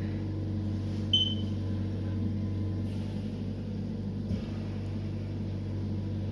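Steady low electrical hum of running equipment, with a single short high electronic beep about a second in.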